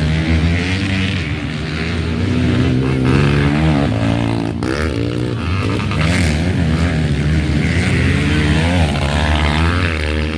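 Several motocross bikes racing, their engines revving up and down in pitch and overlapping as the riders accelerate and back off.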